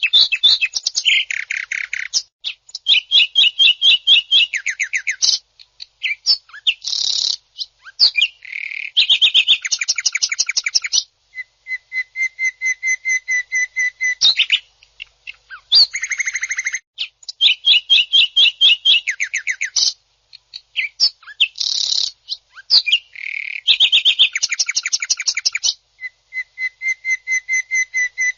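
Greater green leafbird (cucak ijo) singing its harsh 'tembakan kasar' song: bursts of very fast rattling trills and shrill piercing notes, broken by short pauses, with a longer even trill twice. The phrases repeat in the same order, as in a looped training recording.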